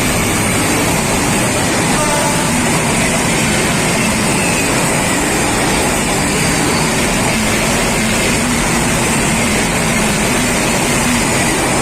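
Passenger train running, a steady loud rumble and rattle of locomotive and wheels on rails with no let-up.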